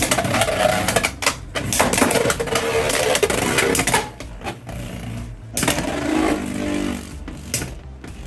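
Two Beyblade X spinning tops clashing in a plastic stadium, with rapid sharp hits and scraping for about four seconds, then fewer, sparser hits as they keep spinning.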